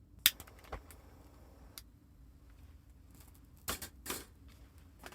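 Sharp clicks and light knocks of cooking gear being handled: one loud click near the start, another just after, then a short cluster of knocks about two thirds of the way through.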